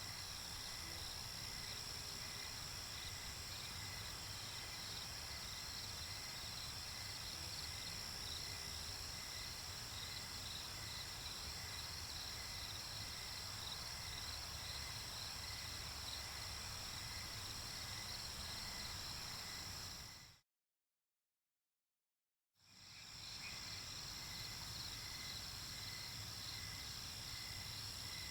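Night-time nature ambience: crickets and other insects chirring steadily, with a pulsing chirp under the high trill and a low rumble beneath. About two-thirds of the way through it fades out to complete silence for about two seconds, then fades back in.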